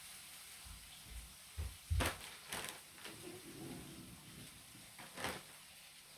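Quiet handling noises: a few soft knocks and sharp clicks, as of small hard pieces and tools being set down and moved on a table, the loudest about two seconds in and another near five seconds.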